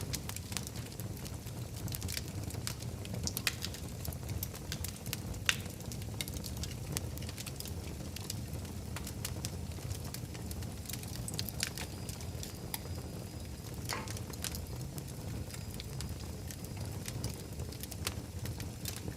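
Wood fire burning in a fireplace: a steady low rumble of flame with irregular sharp crackles and pops, a few of them louder than the rest.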